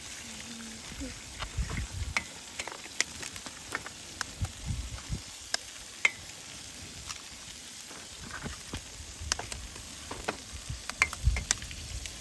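Food sizzling in a pan over an open campfire: a steady frying hiss broken by scattered sharp pops and crackles, with a few dull low knocks.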